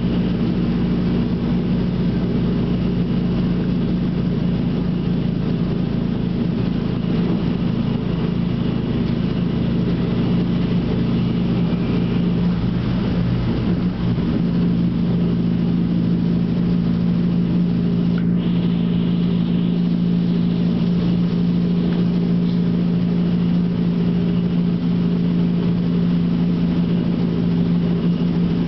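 Stadler GTW diesel multiple unit heard from inside the passenger car while under way: a steady low hum from the diesel power unit over the rumble of the running gear. The pitch holds steady, so the train is running at an even speed.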